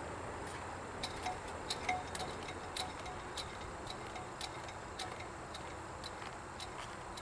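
Railroad crossing bell ringing at a steady pace of about two strokes a second, starting about a second in. Each stroke rings briefly.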